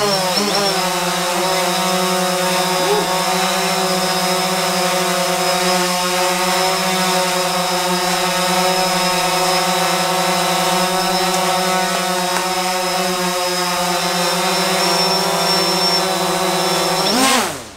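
DJI Phantom 4 Pro quadcopter's propellers humming steadily in a hover, the pitch wavering for the first second before settling. The hum swings briefly near the end and cuts off abruptly.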